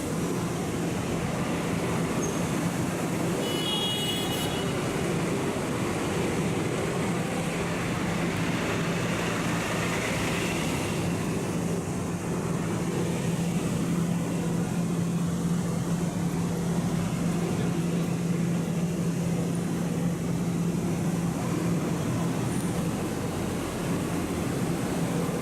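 Moving road vehicle: a steady engine drone with a constant low hum and road noise. A brief high tone sounds about four seconds in.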